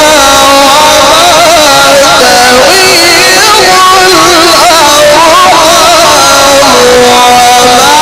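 A male Quran reciter's voice holding a long, ornamented melodic phrase in the Egyptian tajweed style, the pitch winding up and down in wavering turns without a break.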